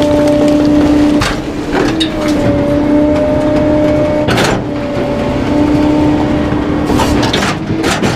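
Garbage truck engine held at raised revs to drive the packer hydraulics, a steady tone, while bulky items crack and snap under the compacting blade several times.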